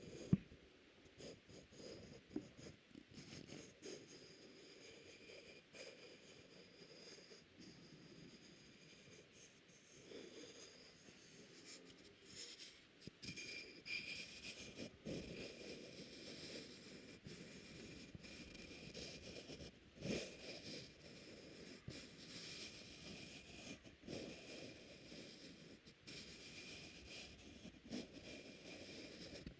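Faint, close-miked ASMR scratching and rubbing with small irregular clicks, over a thin steady high whine.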